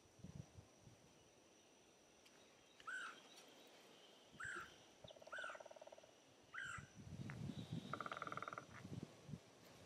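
Wild birds calling: four short, sharp arching notes about a second apart, and two brief buzzy trills. Faint low rustling near the end.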